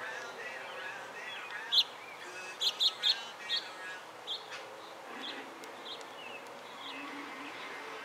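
A small bird chirping: a quick run of short, sharp, high chirps, loudest and most closely spaced between about two and four seconds in, then a few fainter ones spaced further apart.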